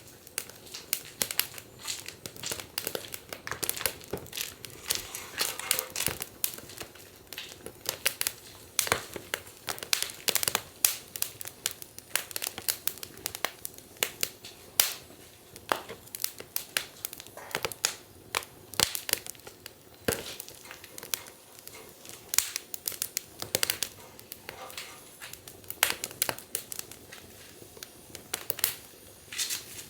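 Wood fire burning in a fire pit, crackling and popping irregularly, with many sharp snaps over a soft hiss.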